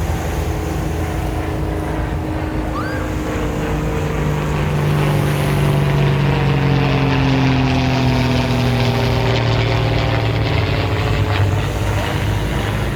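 A motorboat's engine running as the boat passes by. Its droning note slowly drops in pitch and is loudest around the middle.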